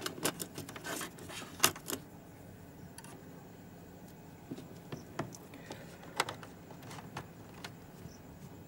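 Hands handling a projector and its power cable, making clicks and light rattles: a quick cluster in the first two seconds, then a few single clicks spaced apart.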